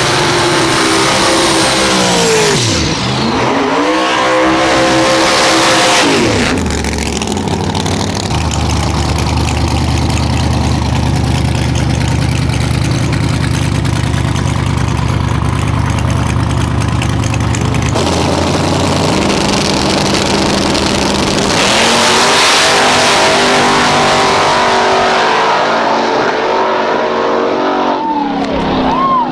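Drag-race car engines revving hard, pitch sweeping up and down several times, with a long steady low drone in the middle.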